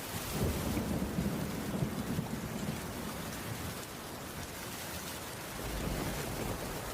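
Heavy rain falling steadily on a wooden roof, with a low rumble of thunder through the first few seconds that swells again near the end.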